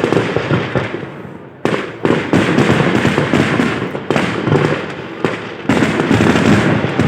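A fireworks display in full barrage: rapid, overlapping bangs one after another, easing briefly about a second in before a fresh volley breaks in suddenly.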